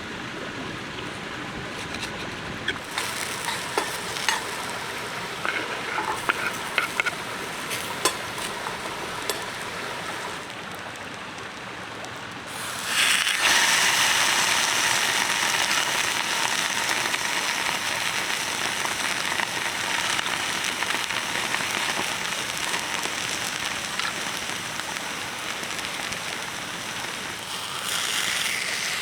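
Small campfire crackling with scattered pops, then about halfway a loud, steady sizzling sets in and carries on: food starting to cook over the fire.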